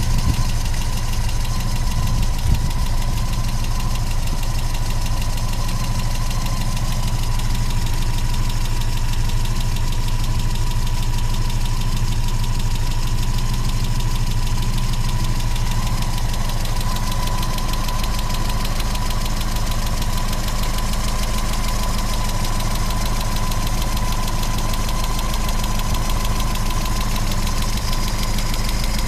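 1980 Austin Mini's tuned 1300 cc MG four-cylinder engine idling steadily after a cold start, with a steady high whine over the engine note.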